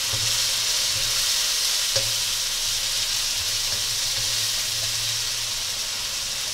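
Chopped tomatoes, onions and spices sizzling steadily in hot oil in a nonstick wok as they are stirred with a spatula, with one sharp tap of the spatula about two seconds in. This is the masala being fried until the tomatoes soften.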